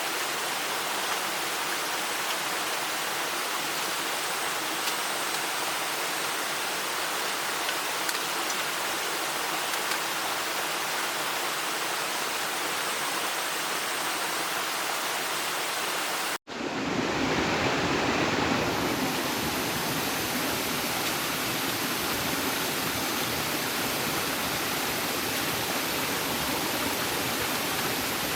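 Steady rushing of water, an even noise with no distinct events. It cuts out for an instant about 16 seconds in, then carries on fuller and deeper.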